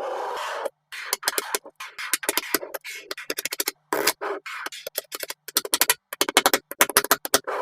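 Small magnetic balls clicking and snapping together in rapid runs of sharp clicks, cut off abruptly by short silences.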